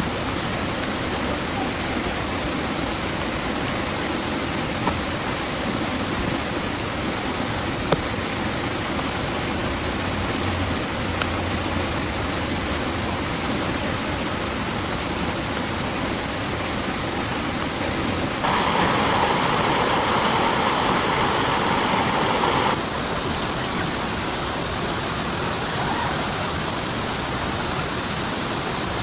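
Heavy rain falling steadily, a dense even hiss. About two-thirds of the way in it gets louder and brighter for some four seconds, starting and stopping abruptly, with a couple of brief ticks earlier on.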